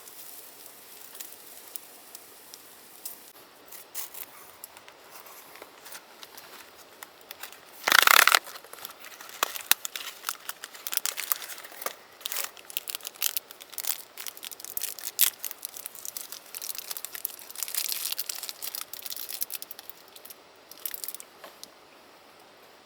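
Something being torn open with one short, loud rip about eight seconds in, followed by irregular crinkling and small clicks of handled packaging.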